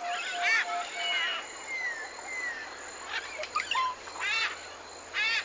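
Several tropical forest birds calling together: a run of short, even whistled notes at about four a second that stops about a second and a half in, thin slurred whistles falling in pitch, and loud harsh calls about half a second in and again near four and five seconds.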